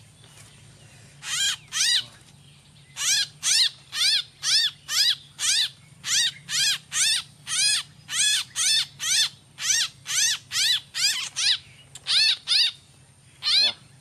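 A captured bird squawking over and over in loud, shrill calls. Each call rises and falls in pitch, and they come about two a second in runs of two to six with short pauses between.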